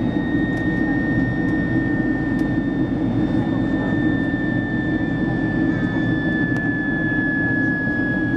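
Boeing 767-300's twin jet engines running steadily, heard as a dense rumble with a high whine that slowly sinks in pitch.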